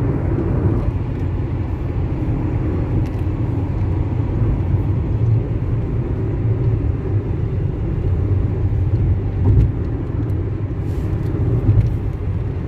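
A car driving at speed on a highway: steady low rumble of engine and tyre noise, with a couple of brief bumps near the end.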